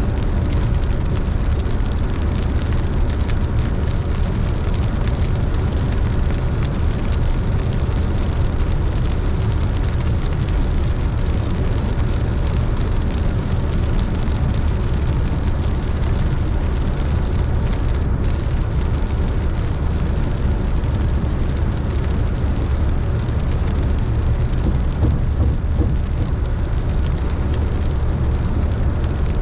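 A car driving on a wet road in the rain: a steady low rumble of tyres and engine under an even hiss of rain and spray.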